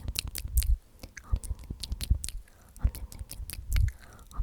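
ASMR mouth sounds: 'omnomnom' whispered over and over, full of wet tongue and lip clicks, with two soft low thumps about half a second in and near the end.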